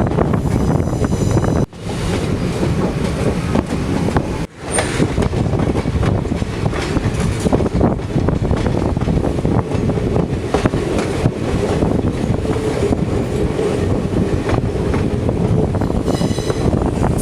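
Passenger train running on the Kollam–Sengottai broad-gauge line, a steady rumble of wheels on rail and rattling carriages with light wheel squeal near the start and end. The sound drops out briefly twice, about two and four and a half seconds in.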